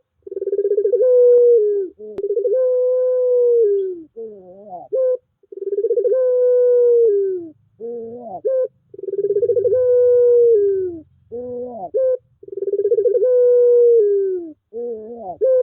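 Puter pelung turtle-dove cooing over and over. Each call is a long, low, drawn-out note that droops at the end, followed by a short wavering note that rises; the pair comes about every three seconds.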